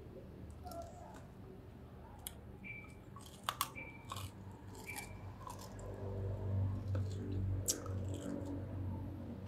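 A person biting into and chewing meat with wet mouth sounds, close to the microphone. There are a few sharp smacks about three and a half seconds in, and the chewing grows louder in the second half.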